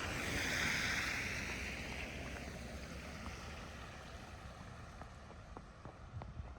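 A vehicle passing on a wet, snowy street: its tyre hiss swells to a peak about a second in, then fades away. Faint footsteps in snow tick through the rest.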